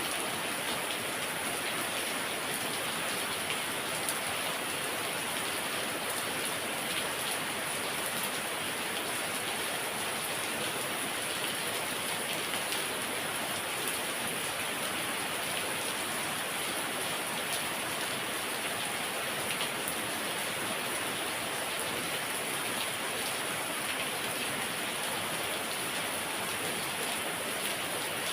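Heavy rain falling steadily, a dense even hiss with many small drop patters.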